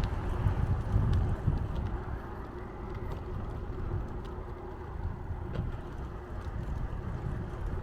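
Steady rumble of riding a bicycle on the road, with low buffeting heaviest about a second in and a few faint ticks.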